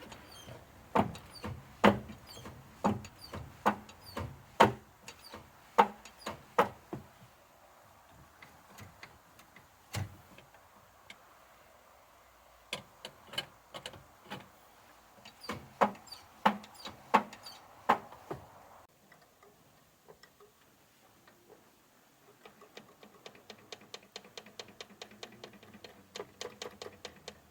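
A series of sharp metallic clicks and knocks with a short ring, about a second apart, with a pause in the middle. Near the end comes a quieter, fast run of ticks, about five a second.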